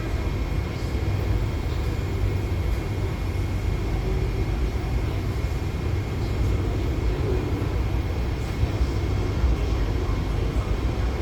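Steady low rumble and hum inside an MTR Tuen Ma line IKK-Train standing at the platform, its air-conditioning and onboard equipment running.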